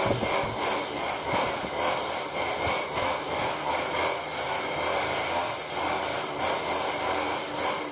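A power tool working metal: a steady, high-pitched hiss and screech that cuts off near the end.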